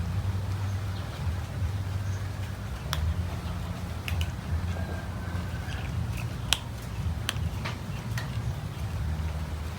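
Cats eating, with scattered sharp chewing clicks over a steady low rumble.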